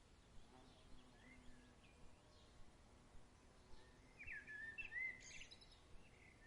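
Faint songbird calls over quiet background hiss, with a clearer warbling song phrase about four seconds in.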